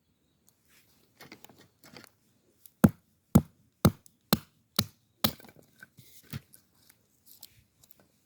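A run of six sharp knocks, about two a second, with lighter clicks and handling noise before and after.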